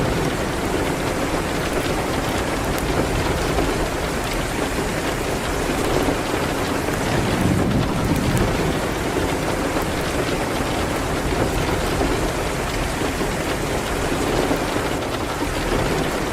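Steady rain against a window, with a low thunder rumble that swells and fades now and then, and small crackles from a wood fire.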